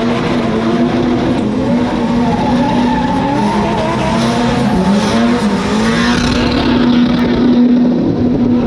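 Lamborghini engine held at high revs during a burnout, with tyres squealing and skidding on the pavement.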